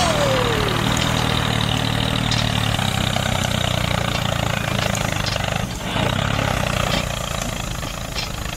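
An engine running steadily at idle, with a short break in the sound about six seconds in.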